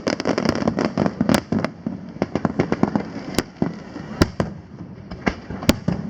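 Fireworks going off in quick irregular succession, a dense run of sharp cracks and pops that thins to scattered single reports in the second half.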